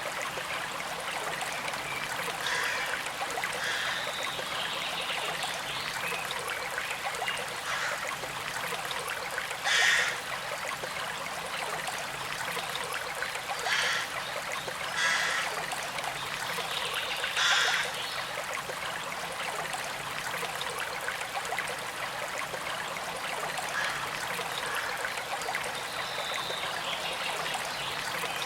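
A small creek flowing and trickling steadily, with the water a little louder in a few short spurts around the middle.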